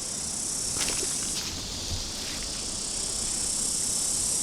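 Steady, high-pitched insect chorus, a continuous even shrill hiss with a few faint ticks under it.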